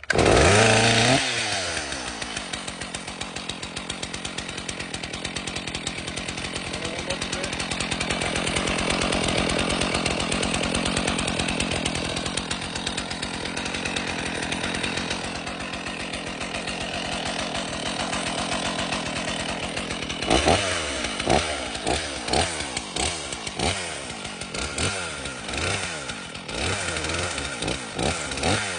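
Stihl MS 461's two-stroke engine catches right away on the cold-start setting and settles, its pitch falling over the first couple of seconds, then runs steadily. From about 20 seconds in it is revved again and again, engine speed rising and falling in quick blips.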